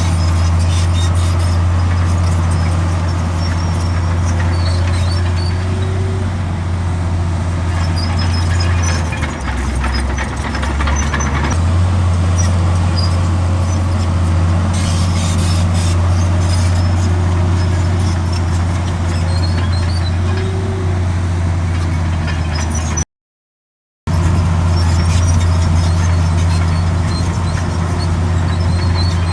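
Komatsu D65 crawler bulldozer's diesel engine running steadily with a deep drone, easing briefly about a third of the way in, with faint high squeaks from the machine. The sound cuts out completely for about a second near the end.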